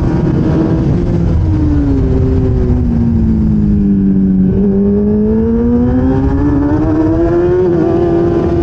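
1000cc racing motorcycle engine heard onboard: the engine note drops for a few seconds as the revs fall, then climbs steadily under acceleration, with a quick gear change near the end. A steady rush sits beneath it.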